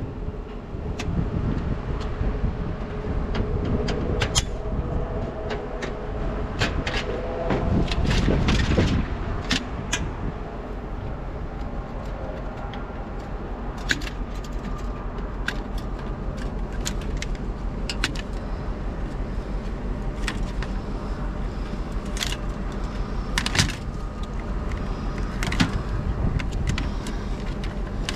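A vehicle engine runs steadily, with short knocks and clicks scattered through it.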